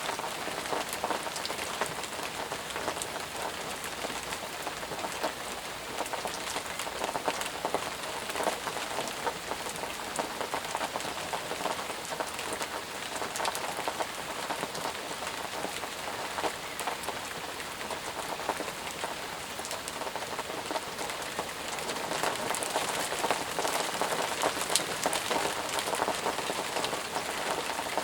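Steady rain falling on leaves and ground, a dense patter of drops, getting a little heavier in the last few seconds.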